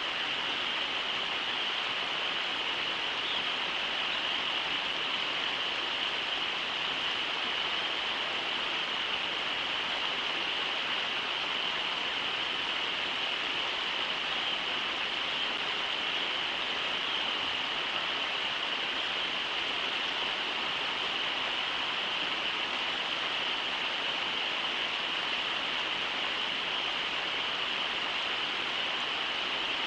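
Steady rushing of river water over shallow rapids, a continuous even hiss with no breaks.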